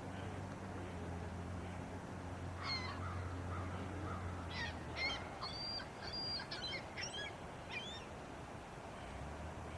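A bird calling in a series of short, sharp chirps for about five seconds, starting nearly three seconds in, over a steady low hum that cuts out about halfway and returns near the end.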